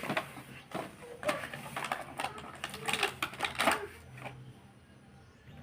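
An irregular run of sharp clicks and knocks, dying away near the end.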